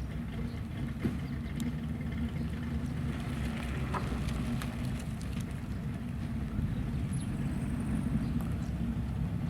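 American car's engine idling steadily with a low, even rumble.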